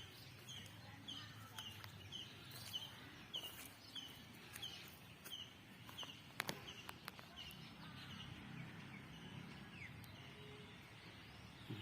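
A bird calling faintly outdoors: one short, high, slightly falling call repeated at a steady pace, about one and a half times a second, over soft background ambience. A couple of faint clicks come about halfway through.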